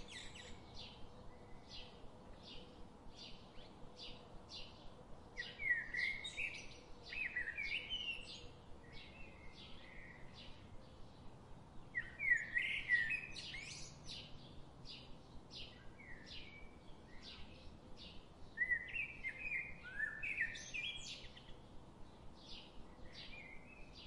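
Birds singing: a steady run of short high chirps about twice a second, with longer bursts of warbled song three times.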